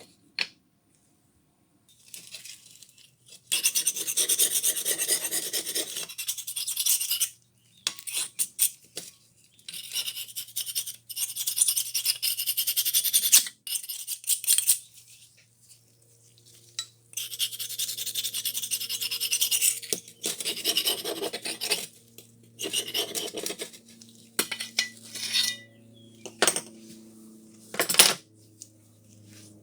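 Abrasive scraping on the rusted steel spanner, in repeated passes of one to four seconds with short pauses between, as rust is worked off. A few sharp clicks near the end, and a faint steady low hum underneath.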